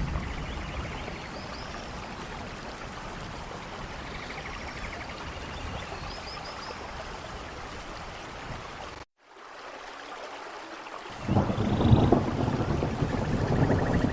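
Steady heavy rain with low rumbling thunder. The sound drops out for a split second about nine seconds in, then a louder rumble of thunder swells near the end.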